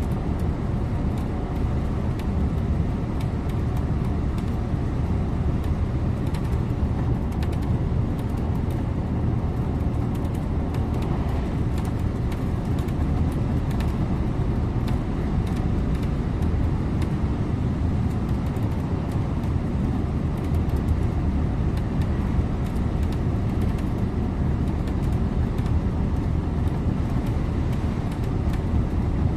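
Scania InterLink bus under way on the road, a steady low drone of engine and road noise heard from the driver's seat.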